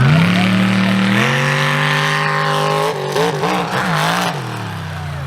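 Mega mud truck's engine running hard under throttle, its pitch stepping up right at the start and again about a second in, then rising and falling with throttle blips around three to four seconds in before holding steady.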